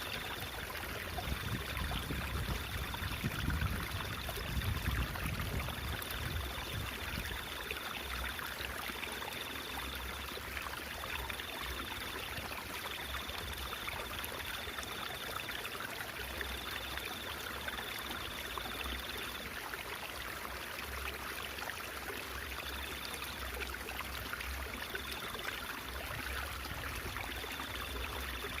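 A stream of water running and babbling steadily.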